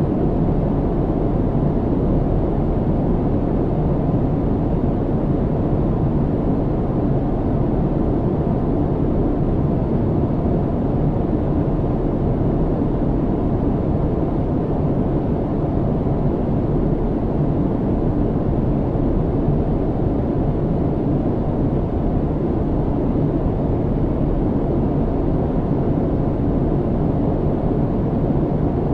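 Steady low rumble of an airliner cabin in flight: engine and airflow noise heard from inside the cabin, even and unchanging, deep and muffled.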